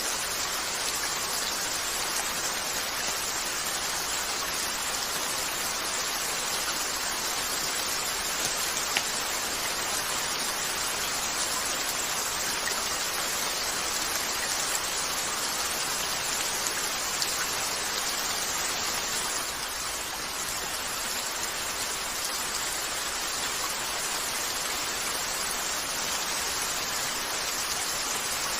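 Steady rain falling on a window, an even hiss with no change in strength, with a few faint sharp ticks scattered through it.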